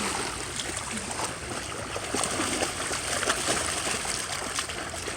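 Water sloshing and lapping with many small scattered splashes.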